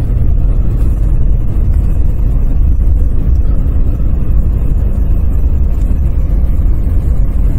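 Steady low rumble of a car driving on a snow-covered highway, heard from inside the cabin: tyre and engine noise.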